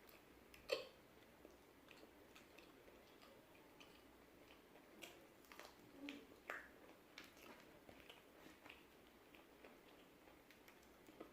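Faint, close-up chewing of crispy fried chicken, with scattered sharp crunches and mouth clicks. The loudest click comes about a second in, and a few more cluster in the middle.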